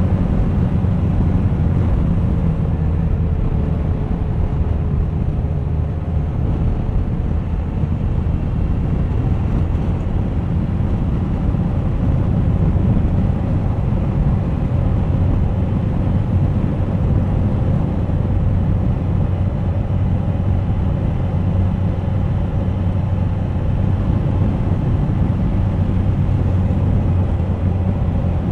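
Suzuki GSX1250FA's inline-four engine running at a steady pace on the move, with a low, even drone and rushing wind and road noise over it.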